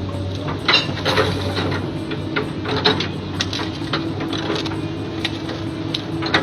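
Komatsu long-reach excavator running, its engine humming steadily, with irregular sharp metallic clicks and clanks and a steady hydraulic whine that comes in about halfway through.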